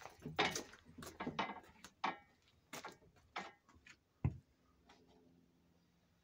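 A run of irregular clicks and light knocks, with a single heavier thump about four seconds in, then only faint background.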